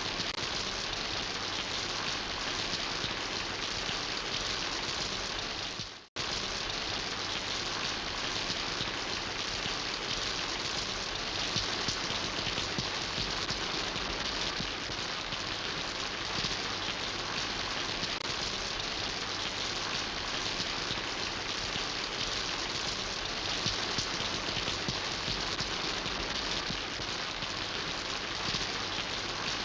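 Steady rain falling in an even, dense patter. It cuts out for an instant about six seconds in.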